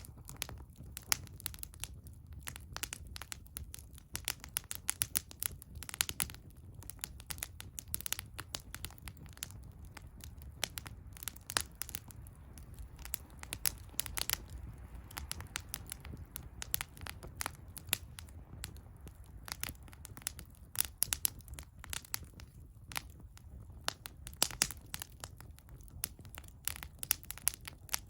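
Wood fire burning, crackling and popping with many irregular sharp snaps over a low steady rumble.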